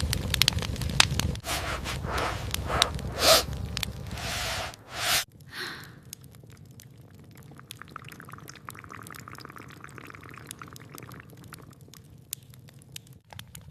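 Water dripping and splashing, a run of sharp drips over a low rumble that is louder for the first five seconds, then fainter scattered drips.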